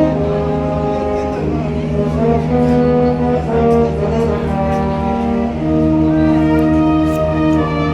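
Brass band playing a slow piece: held chords of brass notes that change every second or so over a steady low bass.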